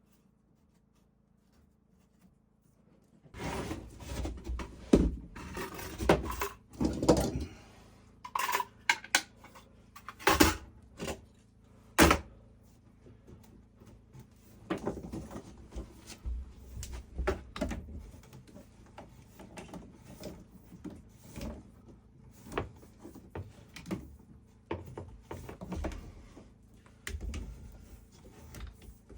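Irregular wooden knocks, thunks and clatter from carpentry work on wood, with scattered sharp strikes rather than a steady hammering rhythm. They begin about three seconds in, after a short near-silence, and are loudest in the first half.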